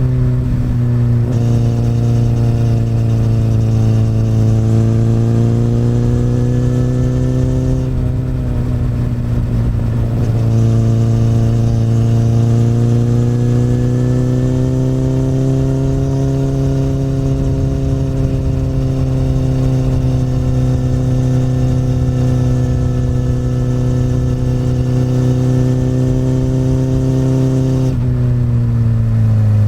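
Honda CBR1000RR's inline-four engine through an Akrapovic exhaust, running steadily under part throttle on a climbing road. The engine note eases and briefly breaks about a third of the way in, then picks up again. It falls away near the end as the throttle closes.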